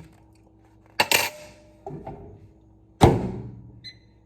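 Two sharp clacks with a brief ringing decay, about a second in and about three seconds in, then a short electronic beep near the end, as a microwave oven is handled and set running.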